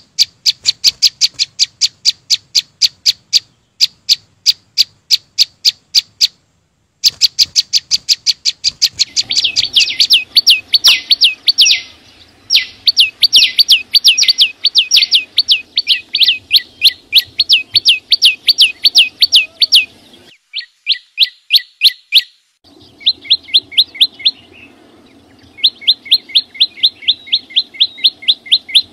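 A small songbird (Vietnamese 'chim sâu xanh') repeating a sharp, high chip note very fast, about five or six a second, in long runs broken by a few short pauses.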